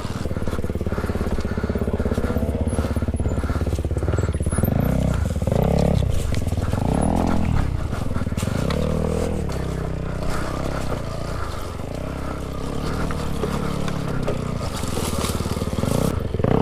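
Dirt bikes revving up and down again and again as they work over rough trail, the pitch climbing and dropping every second or two.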